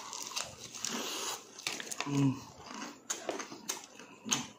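Chewing and crunching a mouthful of crispy deep-fried pork innards, crackly at first, then wet mouth clicks. A short hum about two seconds in.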